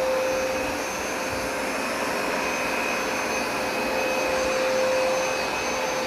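Hoover Smartwash Pet carpet cleaner running steadily, its motor giving an even rushing noise with a constant whine, as it works over carpet.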